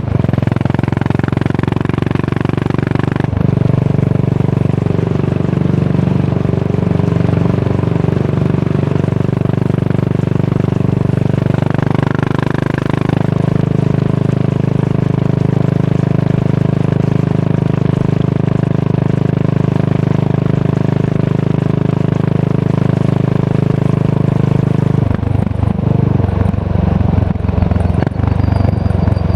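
Yamaha SR400's single-cylinder engine running through a tapered cone slip-on muffler, holding a steady exhaust note while riding. The note shifts about three seconds in and again around the middle, and turns uneven in the last few seconds.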